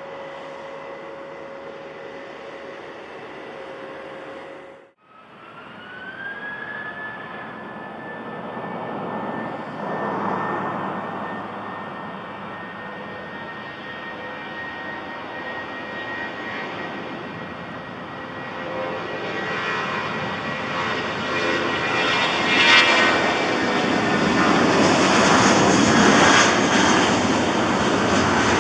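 Airbus A319 jet engines departing: a high engine whine that rises briefly and then holds over a growing rush of jet noise, swelling to loud in the last several seconds. Before that, a quieter steady hum cuts off about five seconds in.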